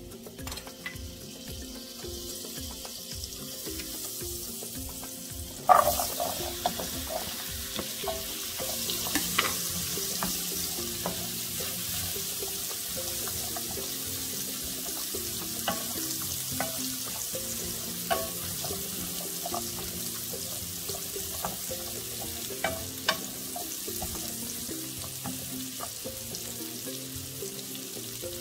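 Butter sizzling faintly in hot olive oil in a stainless steel skillet. About six seconds in, cubed butternut squash goes into the pan with a sudden loud sizzle that then runs on steadily, broken by the clicks of a utensil stirring the cubes against the pan. Faint background music underneath.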